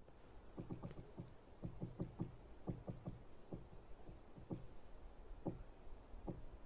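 Woodpecker pecking at a tree trunk: irregular wooden knocks, several in quick little clusters at first, then single knocks about a second apart.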